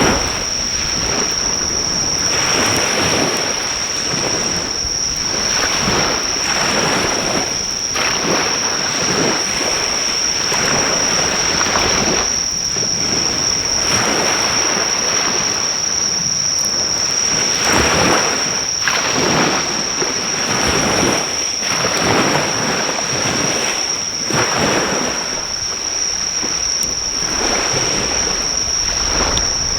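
Waves breaking on the shore in repeated surges every few seconds, under a steady high-pitched insect trill, with a few faint pops from a driftwood fire.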